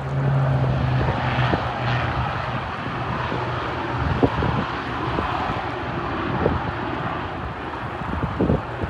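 Propeller airplane engine droning, its low hum strongest for the first couple of seconds and then fading, over a steady rush of noise.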